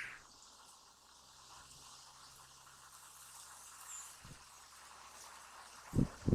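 Quiet outdoor background with a low hiss, broken near the end by two low thumps of strong wind buffeting the microphone.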